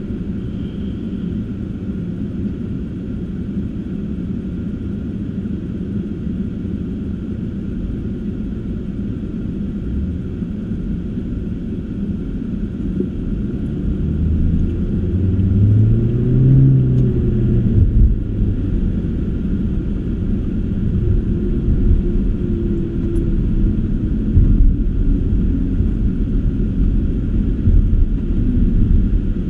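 Car driving, a steady low rumble of engine and road noise. About halfway through it gets louder, with an engine note that rises and then falls in pitch.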